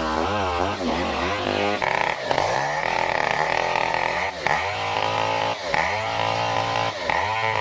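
Stihl 070 two-stroke chainsaw running at high revs while ripping lengthwise through a durian trunk; the engine speed dips briefly and recovers about four times as the chain bites into the wood.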